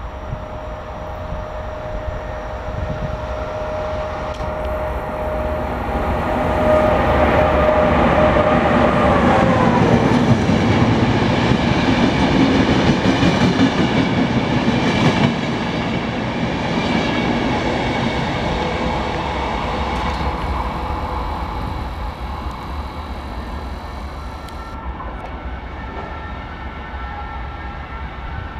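An FS Class E464 electric locomotive hauling a regional train passes at speed. Its steady whine drops in pitch as it goes by, about nine seconds in, then the coaches' wheels rumble and clatter over the rails as the train moves away.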